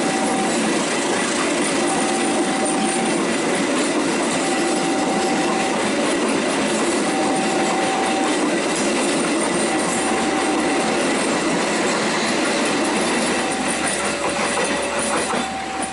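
A train passing close by, its wheels clattering on the rails in a loud, steady rush that eases near the end. Behind it, a warning signal repeats two alternating notes, each held briefly.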